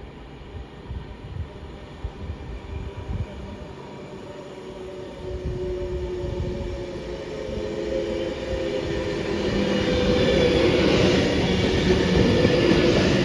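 A train approaching, growing steadily louder over about ten seconds, with a hum of several steady tones over rising rail and running noise.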